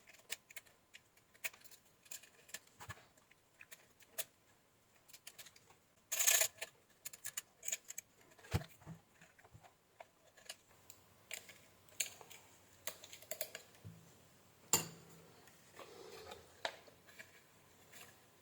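Faint, scattered clicks and taps of small hand tools handled on an electronics workbench during circuit-board repair, with a brief louder scraping burst about six seconds in.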